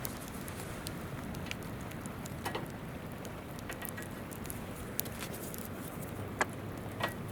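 Wood campfire crackling with scattered sharp pops, over the steady rush of a flowing river.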